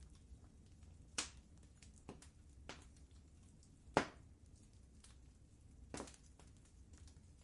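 Wood fire crackling in a fireplace: a low steady rumble with scattered sharp pops and small ticks, the loudest pop about four seconds in.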